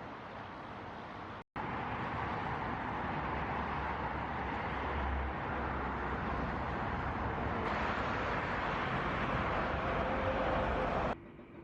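Jet airliner engine noise: a steady rushing sound that grows slightly louder, with a faint steady whine joining in near the end. It breaks off for an instant about a second and a half in, and drops abruptly to a quieter background just before the end.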